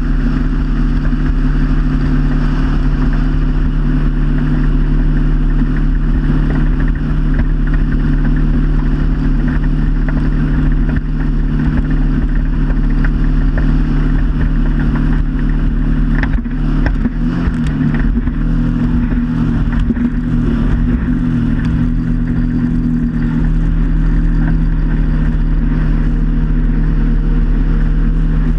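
Motorboat engine running steadily under way, over a continuous rush of water and wind. Its pitch wavers briefly about two-thirds of the way through.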